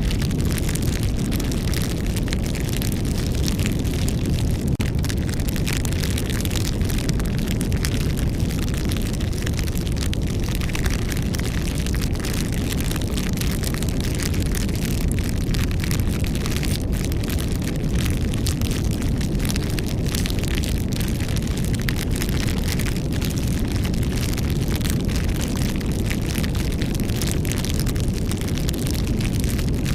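Campfire burning, with a steady low rumble under a dense run of small crackles and pops from the wood.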